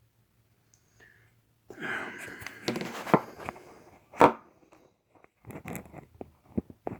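Handling noise: rustling and scraping with sharp clicks, one loud knock a little past halfway, then scattered taps and clicks.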